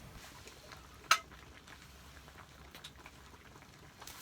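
Faint sizzling of food cooking, with one sharp ringing clink of a utensil against cookware about a second in and a few lighter taps later.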